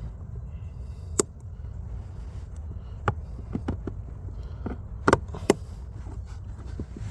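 Scattered sharp clicks and knocks of hands working a plastic retaining clip and rubber drain hose on the firewall, about six in all, over a steady low hum.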